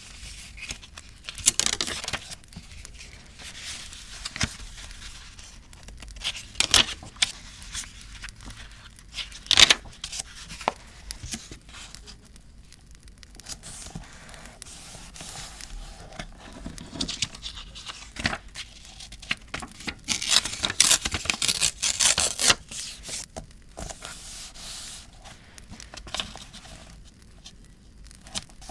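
Paper handling for journal decorating: irregular rustling, crinkling and brief tearing of paper, with a dense run of crisp paper sounds about twenty seconds in.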